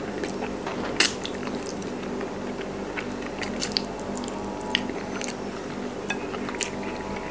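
Close-up chewing of bone-in chicken: wet mouth clicks and small crunches, with one sharper click about a second in.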